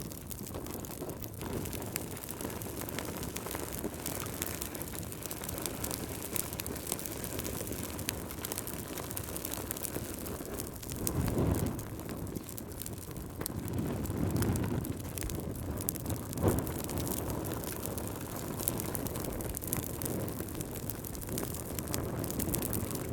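Wood fire crackling with many small pops over a steady low rush. The rush swells louder twice about halfway through.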